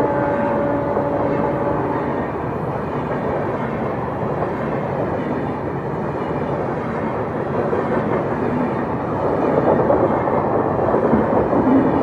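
Indian Railways passenger express train running around a sharp curve, a steady rumble of locomotive and coaches. A thin steady tone fades out about two seconds in, and the rumble grows louder with wheel clatter near the end.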